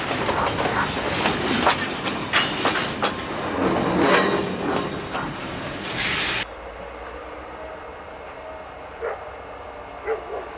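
Conrail freight train's wheels clattering over the rails, loud and busy with sharp clicks. A little over halfway through it cuts off abruptly to a much quieter, steady low background as the diesel locomotives come on.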